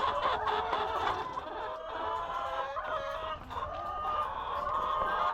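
A flock of laying hens clucking and calling over one another, a sound typical of hens waiting to be fed.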